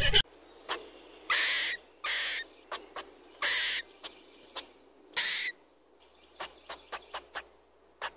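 Eurasian red squirrel calling: a string of hoarse, breathy calls, each about half a second long, then a quick run of five short clicks about six seconds in.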